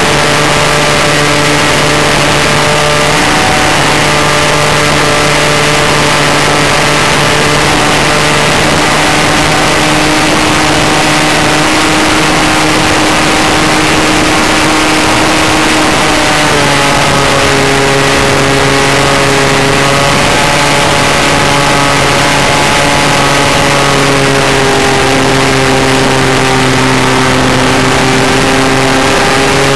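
Model airplane's engine and propeller heard from a camera mounted on the plane, a loud steady drone with a rushing of air over it. The pitch changes about halfway through as the throttle is moved.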